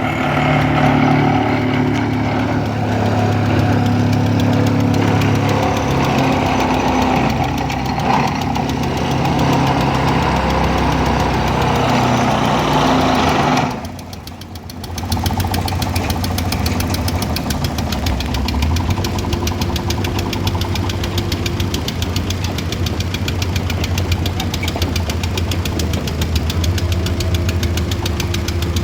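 Motor vehicle or machine engines running. In the first half an engine runs with a steady note; after a brief drop about halfway, an engine runs with a rapid, even knocking clatter.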